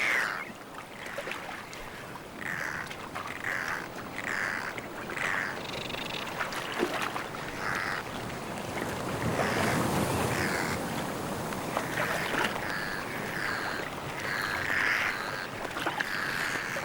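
Seabirds give short calls about once a second over the steady wash of the sea; a second, higher-pitched series of calls joins in the later part.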